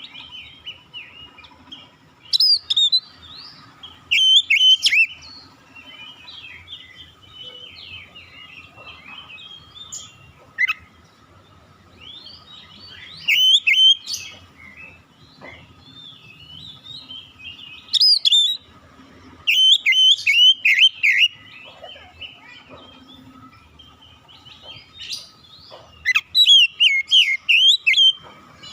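Oriental magpie-robin (kacer) singing: loud bursts of quick, varied whistled phrases every few seconds, with quieter twittering in between.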